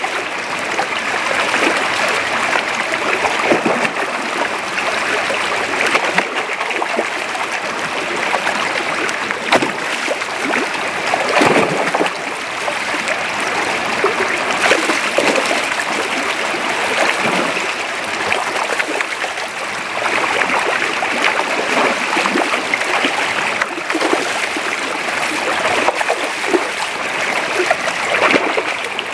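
Creek water running steadily over a shallow streambed, with occasional brief splashes.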